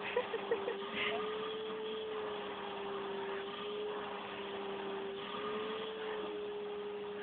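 Vacuum cleaner motor running with a steady hum that wavers slightly in pitch. A few short clicks come about half a second in.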